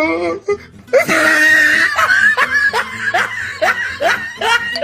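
Loud laughter: a shrill outburst about a second in, then a quick run of short 'ha' laughs, each one dropping in pitch.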